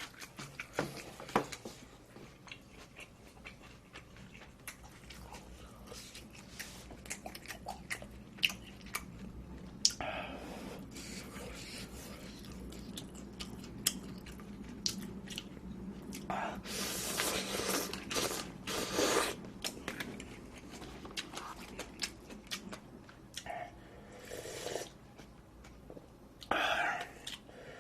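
Close-miked chewing and mouth sounds of eating, with many sharp wet clicks and crunches, and a louder stretch of busy eating noise a little past the middle.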